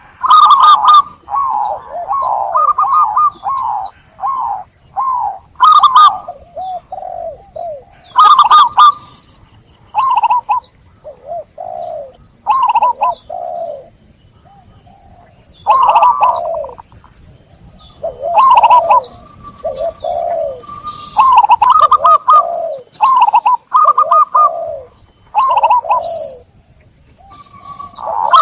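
Zebra dove (perkutut) cooing: repeated phrases of quick, rolling coo notes, each phrase a second or so long, with short pauses between them.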